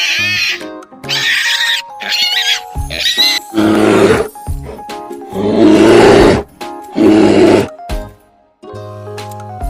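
Animal calls over background music: a few short high calls in the first three seconds, then three longer, louder roar-like calls, the loudest about six seconds in.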